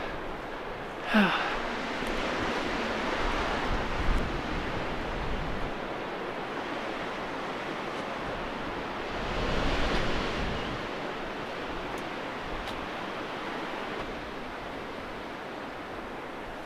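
Strong wind blowing and buffeting the microphone. It swells in gusts about a second in and again near ten seconds, easing a little towards the end.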